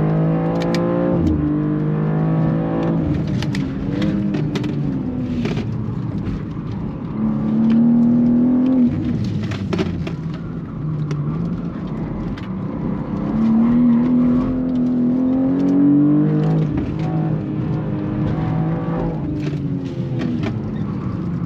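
BMW G87 M2's twin-turbo 3.0-litre straight-six heard from inside the cabin on track, climbing in pitch under acceleration about seven and again about thirteen seconds in and falling back as the driver eases off between, over a steady tyre and road rumble.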